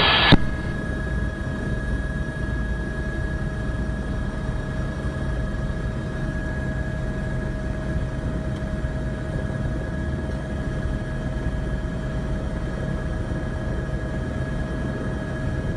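Steady drone of a helicopter in flight, unchanging, with a faint high whine held throughout.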